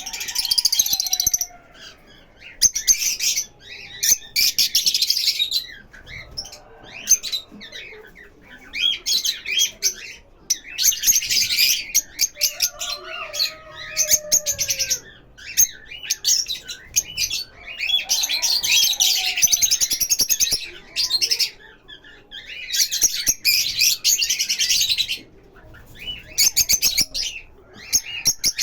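Lovebirds chattering: bouts of rapid, shrill chirping that come and go every few seconds, with short pauses between them.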